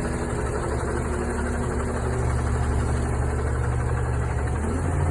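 Garbage truck engine idling steadily with a low, even hum.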